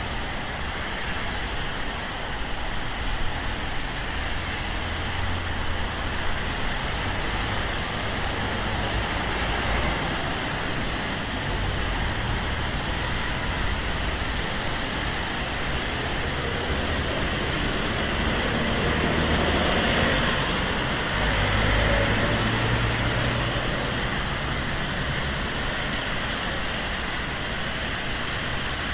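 Steady rain and the hiss of tyres on wet road from city traffic, with low engine rumble; a vehicle passes more loudly about twenty seconds in.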